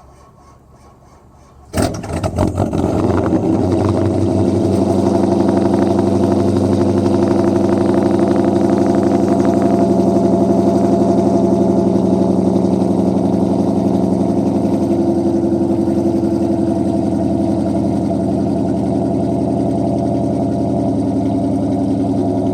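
Chrysler 300C's 5.7 Hemi V8 cold-starting in deep sub-zero cold: it catches about two seconds in with a loud flare, then settles into a steady, loud idle through catless mid-pipes and Flowmaster Super 10 mufflers.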